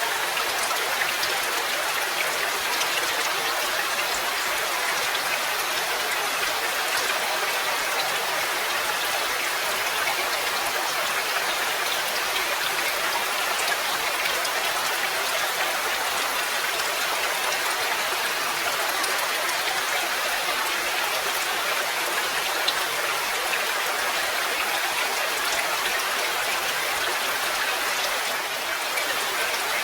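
Steady rain falling: an even hiss flecked with many small drop taps, unchanging throughout.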